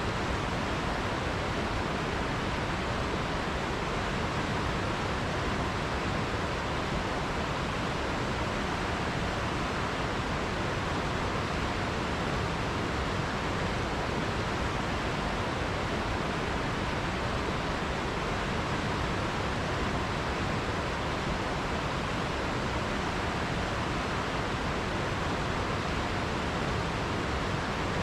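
River water flowing, a steady, even rushing hiss with no splashes or changes.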